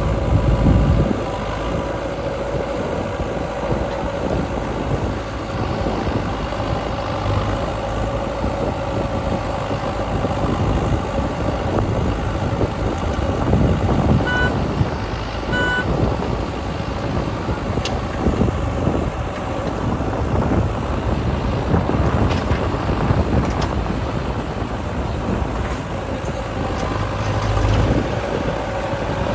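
Diesel engine of a JCB 3DX backhoe loader running steadily as it works loading mud, its level rising and falling with the load. Two short beeps sound a little past the middle.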